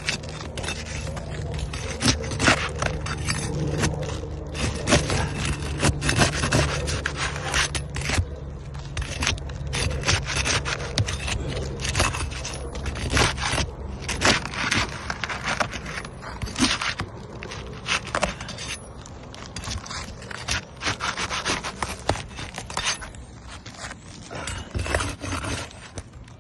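Irregular scraping and rubbing strokes on roof shingles, one after another, as a damaged shingle is worked loose for repair.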